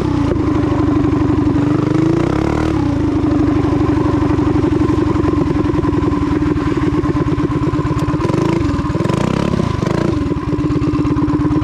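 Custom vintage mini bike's small engine running steadily on a freshly fitted Wildcat WC22 carburetor, with a brief dip in the running about nine to ten seconds in.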